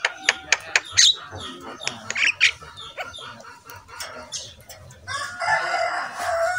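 Birds calling: a rapid run of short, sharp calls, with a longer, harsher call near the end.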